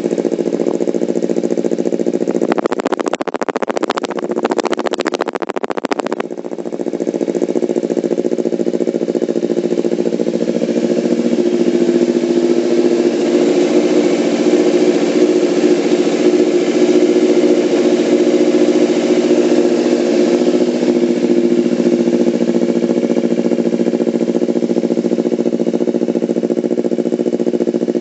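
Kawasaki Ninja 250 parallel-twin engine idling steadily through an aftermarket racing exhaust. A stretch of rapid crackling starts a few seconds in and lasts about three seconds.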